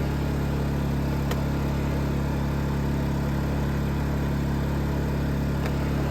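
Predator 2500 inverter generator's small single-cylinder four-stroke engine running at a steady hum, with a couple of faint ticks.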